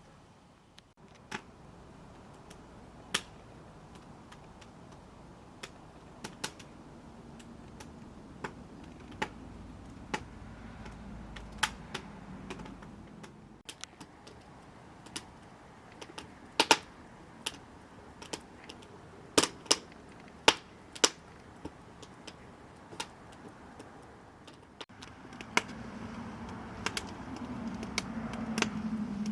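Wood fire crackling in the hot tub's firewood stove: irregular sharp pops and snaps of varying loudness over a low hiss, with a low rumble growing louder near the end.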